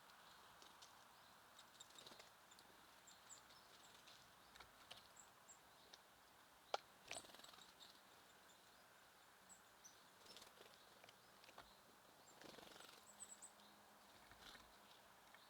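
Faint, scattered high chirps of small songbirds at a feeder, with soft taps and rustles and one sharp click about seven seconds in.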